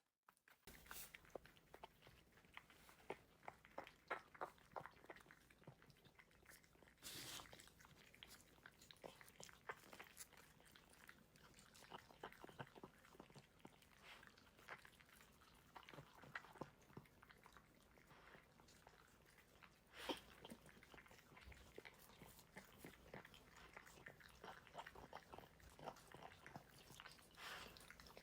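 A dog eating its food: a steady run of faint crunches and clicks as it chews and bites, a few louder crunches among them.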